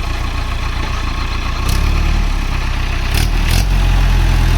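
Tractor diesel engine running, getting louder and heavier in two steps, about a second and a half in and again about three seconds in. Short hisses come at the steps.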